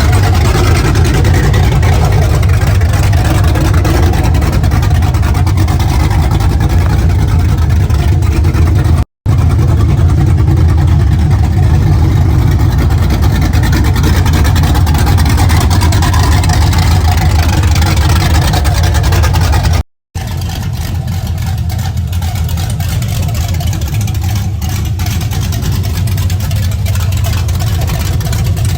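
Freshly rebuilt V8 of a cat-eye Chevy Silverado, with 243 heads and Speed Engineering headers, running loud with a deep steady rumble. The sound cuts out abruptly twice, about 9 and 20 seconds in, and is a little quieter after the second cut.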